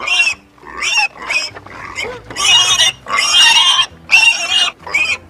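Pigs squealing: a quick series of about eight short, high-pitched squealing calls with brief gaps between them.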